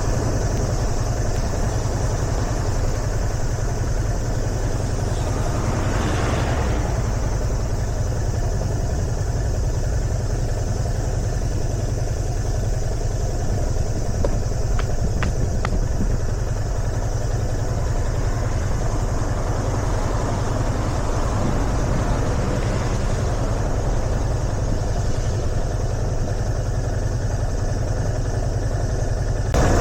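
Yamaha FZS25's single-cylinder engine running at a steady pace under way, with a hum of road and wind noise, and a swell of rushing noise about six seconds in.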